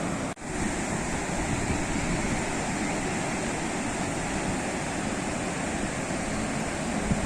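Sea waves washing onto the shore: a steady, dense rush of surf with one momentary dropout a third of a second in.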